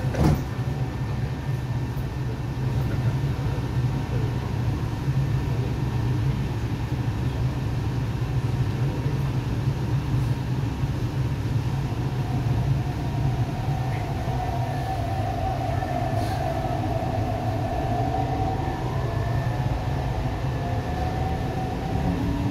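Inside a moving MTR East Rail Line R-Train carriage: a thud right at the start, then the steady low rumble of the train running. An electric motor whine comes in about halfway through.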